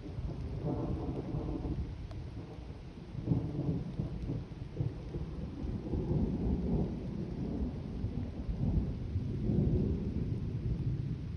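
A long rumble of thunder that swells and fades several times, with rain falling.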